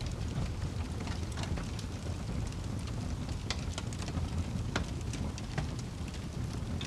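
Wood fire crackling and popping with irregular sharp snaps over a steady low rumble.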